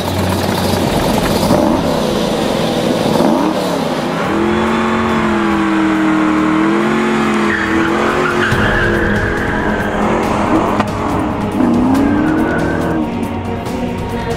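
1967 Shelby GT500CR's 427 V8 revving up and down hard while its tyres squeal as the car slides, under background music.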